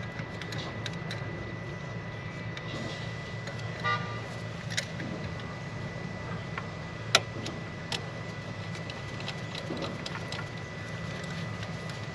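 Scattered light clicks and taps of metal parts and hand tools while a new fuel line is fitted to a diesel fuel injector, over a steady low hum in the background.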